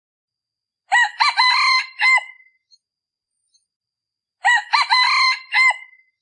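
Male decoy red junglefowl crowing twice, each crow a short broken string of notes, the kind of call used to lure wild junglefowl cocks.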